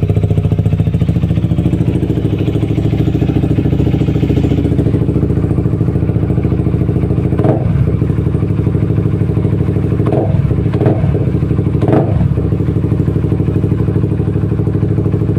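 Honda CBR150R's single-cylinder engine idling steadily through an aftermarket Emotion Italian-style exhaust, a deep, round-sounding bass note, with a few brief bumps about halfway through.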